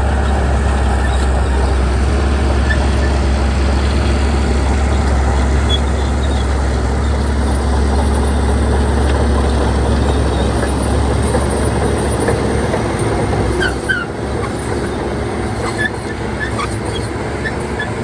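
Bulldozer's diesel engine running steadily under load with a deep drone, which eases about fourteen seconds in, with a few short metallic squeaks near the end.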